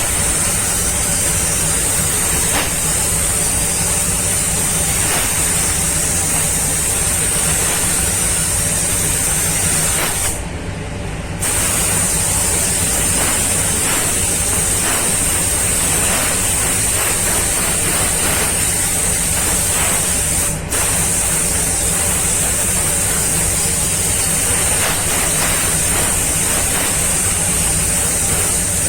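Compressed-air paint spray gun hissing steadily as car body paint is sprayed, stopping for about a second a third of the way in and cutting out very briefly again about two-thirds through, over a steady low hum.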